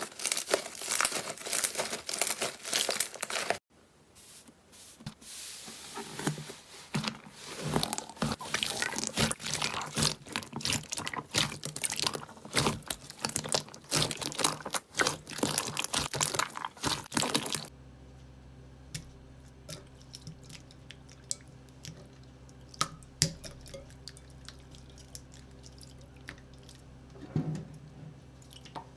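Slime squeezed and worked by hand, with dense crackling and popping clicks. Near the end it gives way to quieter handling: scattered soft clicks over a faint steady hum.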